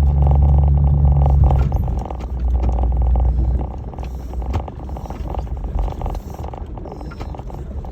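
1996 Jeep Grand Cherokee ZJ's 5.2-litre V8 running as it drives a rough dirt trail, with a low rumble that is strongest for the first few seconds and then eases off. Tyres crackle over gravel and rocks throughout.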